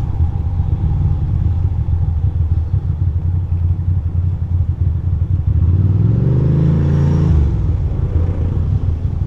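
2006 Ducati Monster 620's air-cooled L-twin engine running at low speed, with a brief rise in revs about six seconds in that drops back after a second and a half.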